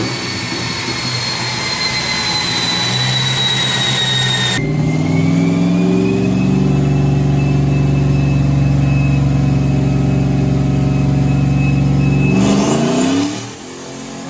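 Turbocharged 5.2 L Magnum V8 in a Dodge Dakota running under load on a chassis dyno. About four and a half seconds in the sound changes abruptly, and the engine then holds a steady speed with a steady high whine over it until its revs fall away near the end.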